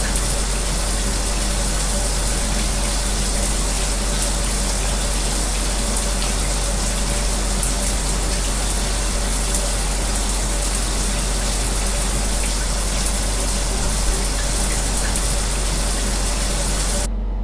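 Shower spray running steadily as an even hiss over the low, steady hum of a fan. Near the end the shower hiss cuts off abruptly, leaving the fan hum.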